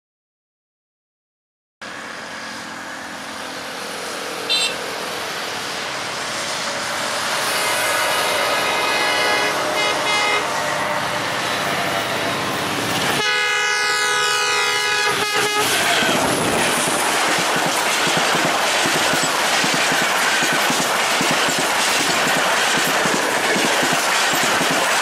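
Silence for about two seconds, then an approaching diesel-hauled passenger train that grows steadily louder. The locomotive's multi-tone horn sounds in short blasts, then one long blast of about two and a half seconds near the middle. The steady noise of the coaches passing close by follows.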